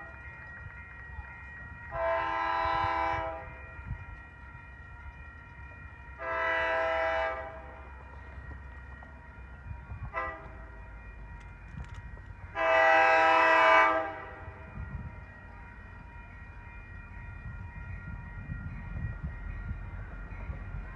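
Train horn sounding the grade-crossing signal, long, long, short, long, with the last blast the loudest. Underneath is a low rumble of the approaching train that builds toward the end.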